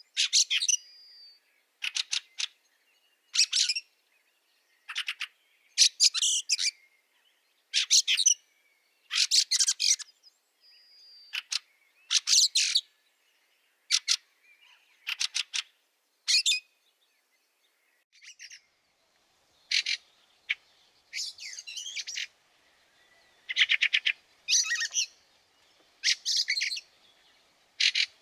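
Fieldfare giving harsh, chattering 'chack' calls in a long series of short rattling bursts, about one every one to two seconds.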